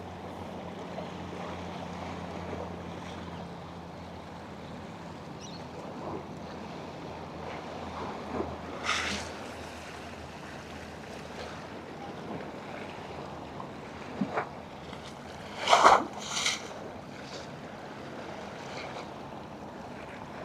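Harbour ambience of water and wind, with a boat engine's low hum in the first few seconds. A few short, louder sounds break in, the loudest about three-quarters of the way through.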